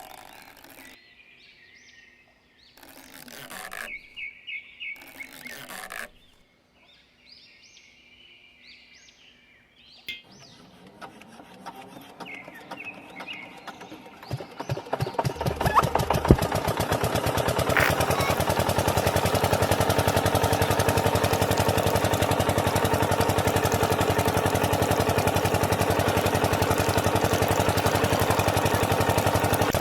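Birds chirping, then a small engine is started: uneven chugging pulses about ten seconds in build until it catches around fifteen seconds in. It then runs steadily and loudly.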